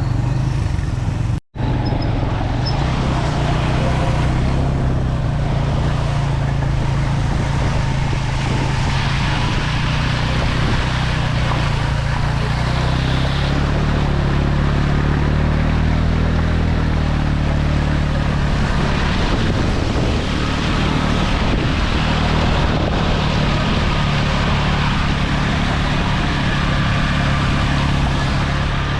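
Suzuki GS150 motorcycle's single-cylinder four-stroke engine running steadily under way, over a steady hiss. The sound drops out for an instant about a second and a half in, and the engine pitch rises and shifts around the middle.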